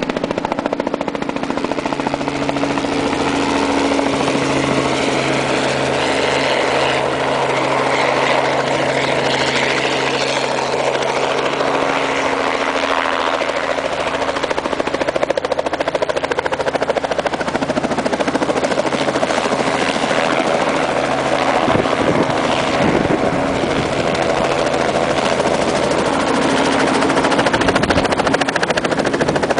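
Helicopter flying, with continuous loud rotor and engine noise and a steady low hum; the sound shifts about two-thirds of the way in.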